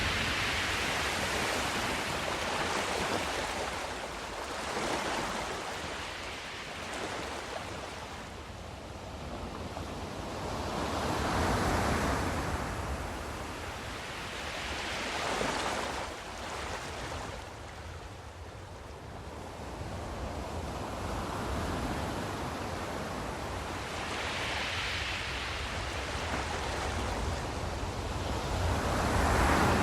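Ocean surf: waves breaking and washing up, the rush swelling and falling back every few seconds.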